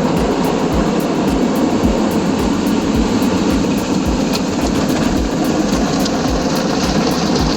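Automatic car wash running over the car, heard from inside the cabin: a steady wash of water spray and machinery noise with a quick, regular low thumping underneath.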